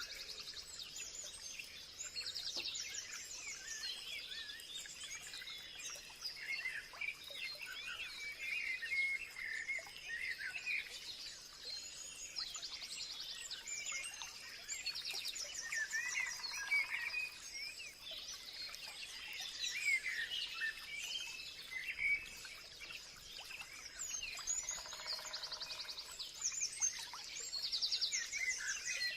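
Many songbirds chirping and calling at once in a dense chorus, with short fast trills repeating every so often. A thin steady high tone runs underneath, and a lower buzzy call comes in twice.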